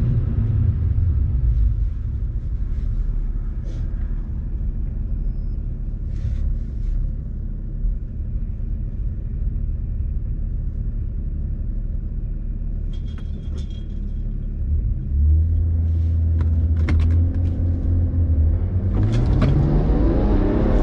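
BMW 335d's twin-turbo M57 straight-six diesel idling with a low rumble. About 15 s in, it is held at a steady higher rpm. Near the end, it revs up with rising pitch as the car launches.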